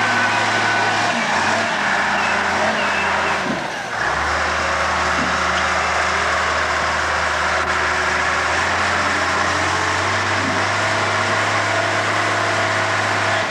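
A truck's engine running close by: a steady, loud drone whose pitch steps up or down a few times, with a brief dip about four seconds in.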